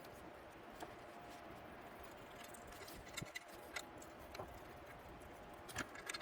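Faint, scattered light clicks and taps of small metal parts and hand tools being handled during axle assembly, over a low steady background hiss.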